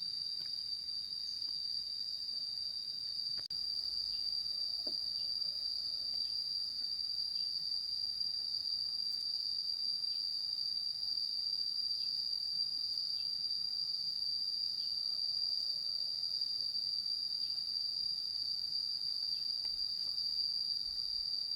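Insects trilling in a steady, continuous high-pitched drone, with faint short chirps repeating about once a second.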